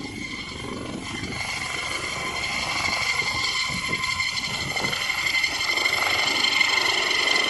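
Helicopter running, a steady high turbine whine over the rotor's low beat, growing steadily louder.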